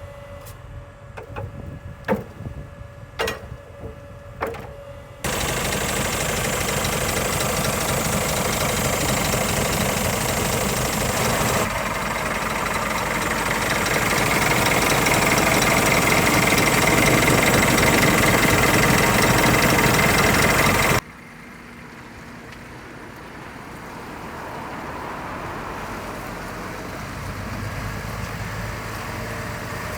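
A few clicks and knocks, then from about five seconds in the Scania R500 timber truck's engine runs loudly, getting louder toward the middle. About two-thirds of the way through the sound cuts off suddenly to a quieter, steady engine sound.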